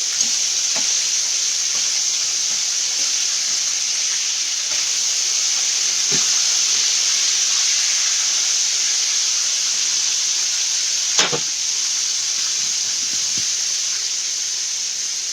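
Thin pieces of chicken frying in hot oil in a skillet: a steady sizzle, with a sharp click about eleven seconds in.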